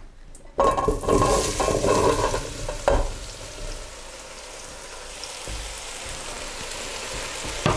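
Diced pumpkin tipped into hot olive oil in a stainless steel pot: a sudden loud burst of sizzling about half a second in, settling into steady frying sizzle. A sharp knock comes about three seconds in and another at the end.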